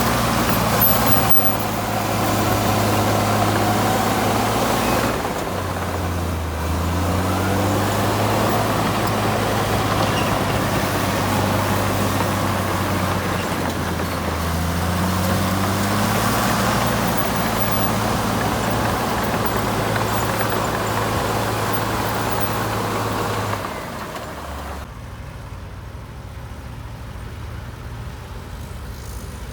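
Heavy diesel engine of an earthmoving machine running under load, its pitch sagging and picking back up twice. It turns noticeably quieter near the end.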